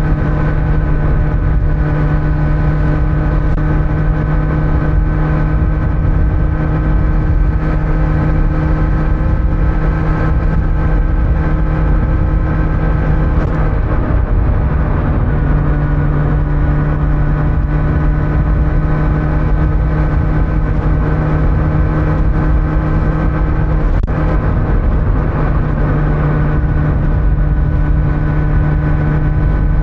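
Kawasaki Z900's inline-four engine running steadily at cruising speed through a stock exhaust, with road and wind noise under it. The engine note briefly wavers about halfway through, then settles again.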